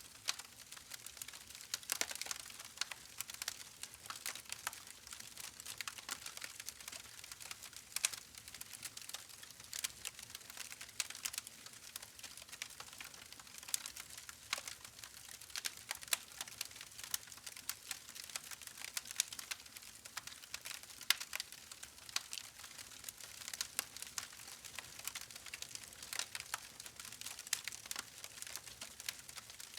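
Campfire burning with dense, irregular crackles and pops from the wood over a soft hiss.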